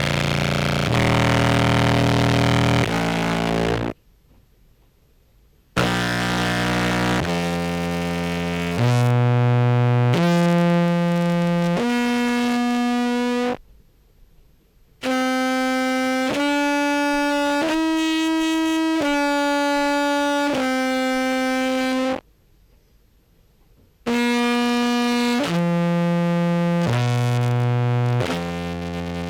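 Contrabass clarinet amplified through a pickup and effects pedals, compressor included, playing held notes about a second each in short stepwise phrases, with pauses of about two seconds between phrases. The opening phrase is low and fuzz-distorted; the later phrases climb and then descend with cleaner, even-level notes.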